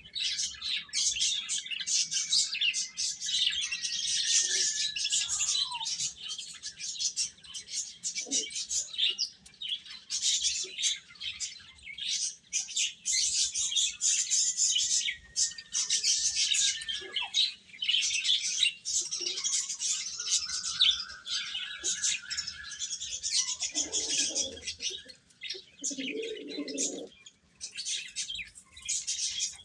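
A brood of baby chicks peeping continuously, many high-pitched chirps overlapping, with a few longer gliding calls and some brief lower sounds about three-quarters of the way through.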